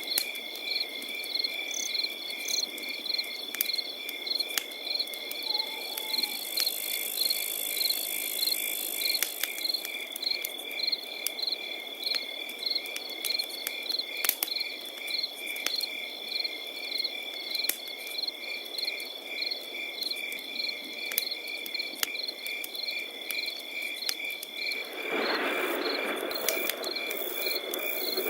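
Crickets chirping in a steady, regular pulse of about two or three chirps a second over a continuous high insect trill, with scattered small campfire crackles and pops. A louder rushing noise swells for a few seconds near the end.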